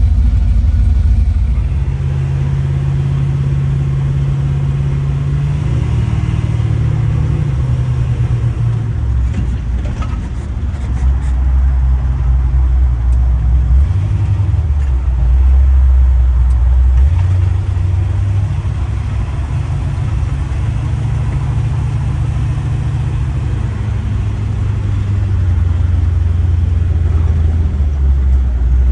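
LS-swapped 1965 Chevy Nova's aluminum 6.0-litre V8 running while the car is driven, a loud low drone whose pitch steps up and down several times as the speed changes.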